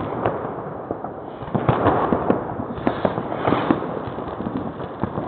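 Many fireworks going off at once, rockets among them: a continuous scatter of bangs and crackles, with louder clusters about two seconds in and again a second and a half later.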